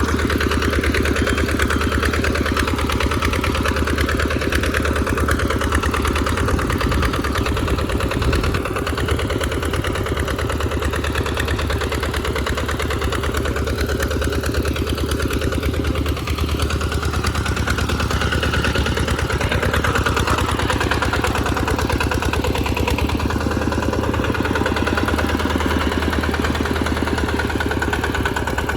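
Tractor engine running steadily while plowing in mud, with a brief louder knock about eight seconds in.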